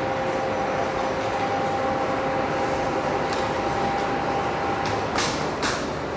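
A remote-controlled concrete floor grinder running, with a steady mechanical noise under a two-tone motor whine. The whine drops out about four to five seconds in, and two short sharp hissing bursts follow about a second later.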